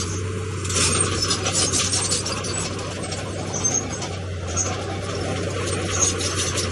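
Komatsu D31P bulldozer working stone: a steady low engine hum under a dense, continuous crackle of scraping and grinding rock and clattering tracks.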